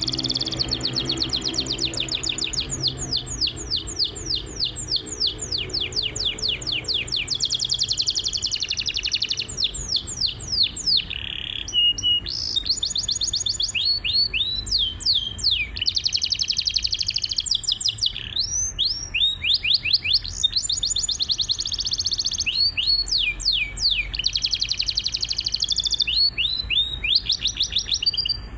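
Domestic canary singing continuously in full song: long fast trills and rolls, high-pitched, broken by short pauses and swooping notes.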